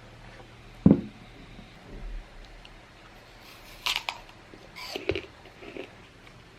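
A dull thump about a second in, then a few light clicks and rustles of objects being handled.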